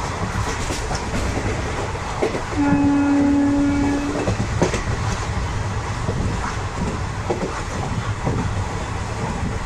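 Express train running at speed, a steady rumble with wheels clicking over rail joints. About two and a half seconds in, a horn sounds once, a single held tone lasting under two seconds.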